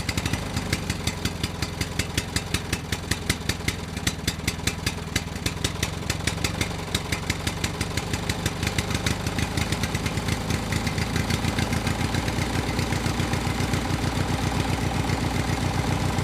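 Small motor-driven homemade mini chaff cutter machine running, with a rapid regular ticking. It starts suddenly, and the rhythm grows faster and steadier about halfway through.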